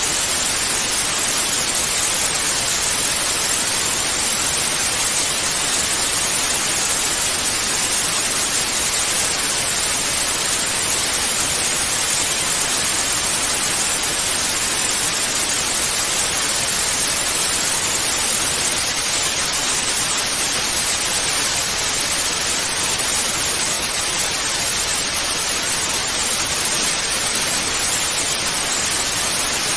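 Analog television static: a steady, even hiss weighted toward the high frequencies, dipping slightly in level about two-thirds of the way through.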